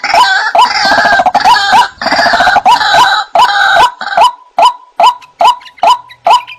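White-breasted waterhen (ruak-ruak) calls from a bird-lure recording. A loud, even series of short rising notes comes about two or three a second. Harsh overlapping croaking calls run through the first half, then the repeated notes go on alone.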